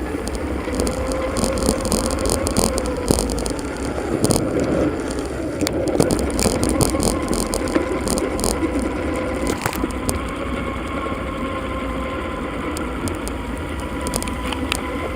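Riding noise from a bicycle, sped up four times: a steady rush of wind and road noise with a faint wavering hum and scattered rattling clicks.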